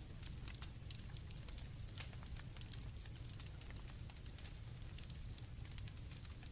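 Campfire crackling, with frequent irregular sharp pops and snaps over a low rumble, while crickets chirp in a steady high trill behind it.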